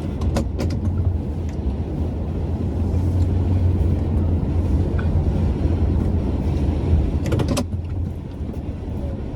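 Truck running: a steady low rumble of engine and road noise, with a few sharp clicks about half a second in and again near the end.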